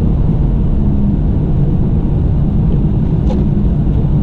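Steady low rumble of a pickup plow truck driving slowly on a snowy road: engine and road noise. A faint tick sounds about three seconds in.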